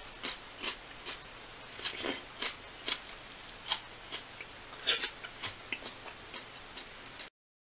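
Eating a raw shredded cabbage salad with chopsticks: an irregular run of short, crisp crunches and clicks, about two or three a second, which cuts off suddenly near the end.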